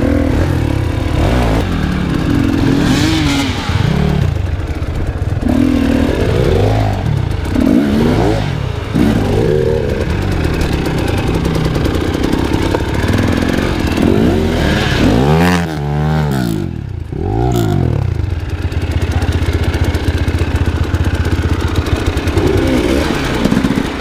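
Enduro motorcycle engine revving up and down hard, its pitch climbing and falling again and again, with clatter from the bike running over rough ground. A quick rev sweep comes about two-thirds of the way through, followed by a brief drop in the engine note.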